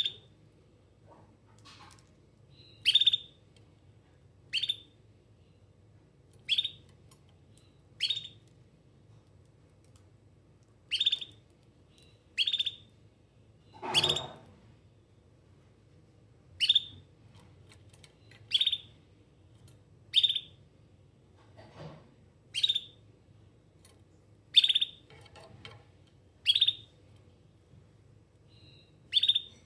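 Domestic canary giving single short chirping calls, each a quick falling note, repeated about every one and a half to two seconds rather than a continuous song: calling out, as if for absent companions. About halfway through, one louder call comes with a low thud under it.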